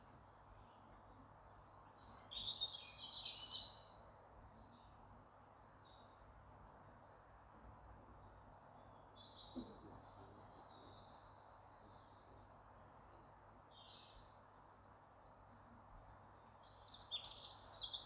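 Small songbirds chirping and calling in short high bursts over steady faint outdoor background noise, the loudest bursts about two seconds in, around ten seconds, and near the end.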